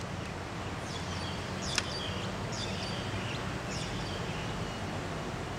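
Birds chirping in short, repeated high calls over a steady low background hum, with one sharp click about two seconds in.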